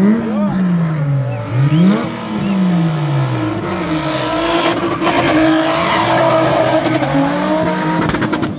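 Nissan VQ35DE 3.5-litre V6 in a Toyota Cressida spinning its rear tyres. In the first few seconds the revs fall and climb again twice. Then the engine is held high and steady while the tyres screech.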